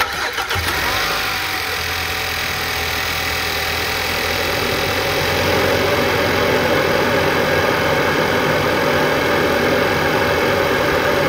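Audi Q7's 2.0-litre turbocharged engine starting and then running at idle, with loud rushing intake air because the plenum cover is off. It gets a little louder about five seconds in.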